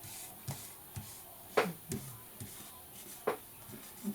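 Paper and craft pieces being handled on a work table, with a few short taps, the two loudest about a second and a half in and just over three seconds in.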